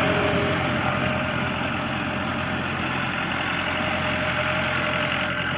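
1990 Case 585's 3.4-litre four-cylinder Case diesel running steadily as the tractor drives in high range, easing slightly in loudness over the first couple of seconds.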